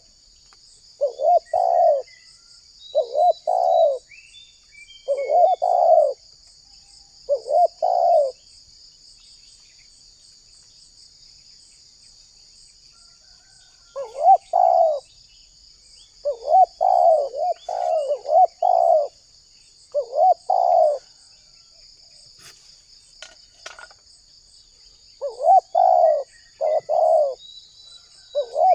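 Spotted dove cooing in repeated short phrases of two or three notes, with a pause of several seconds in the middle. A steady high insect drone runs underneath, with a few faint small-bird chirps.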